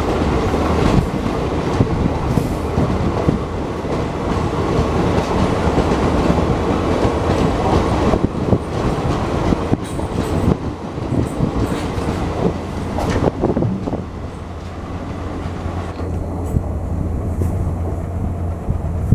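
Passenger coaches of an express train rolling past at speed, their wheels clattering over the rail joints. The sound drops away over the last few seconds as the end of the train draws off.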